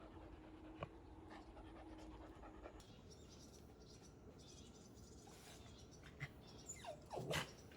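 Faint, quick panting of a pet animal, a fast even rhythm, over a steady low hum that stops about three seconds in.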